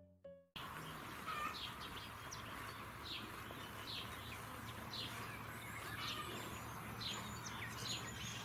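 Small birds chirping over a steady outdoor background hiss, with short downward-sliding calls one or two a second. A piano note fades out in the first half second.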